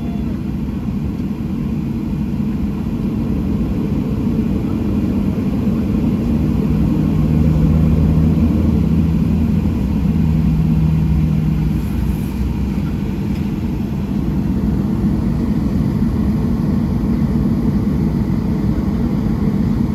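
Steady low rumble inside the cabin of a Boeing 737-700 on the ground with its engines running at low power, with a low hum that swells for a few seconds in the middle.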